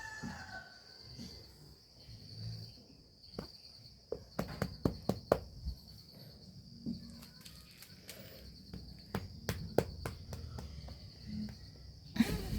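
A steady high cricket-like chirring goes on throughout, with scattered sharp taps and clicks, clustered about four to six seconds in and again near the end.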